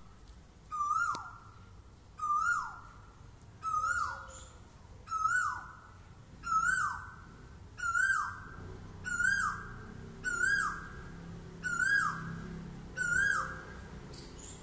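A bird calling over and over, about one call every one and a half seconds, each call a clear note that drops in pitch at its end.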